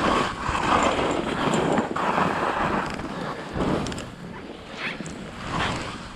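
Skis hissing through deep fresh powder snow in a run of quick turns, a swell of snow noise about every second, with wind buffeting the microphone.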